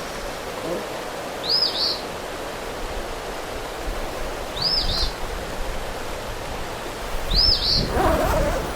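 A small bird calls a short double chirp three times, about every three seconds, over a steady outdoor hiss of rain and wind. Near the end a louder wavering mid-pitched sound joins in.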